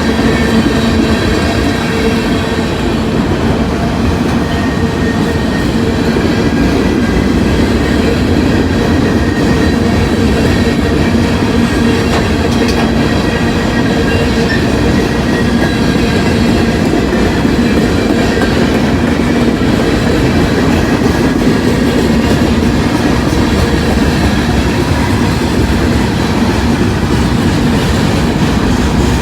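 Freight train rolling past at trackside: a loud, steady rumble and rattle of cars on the rails, with no change in level.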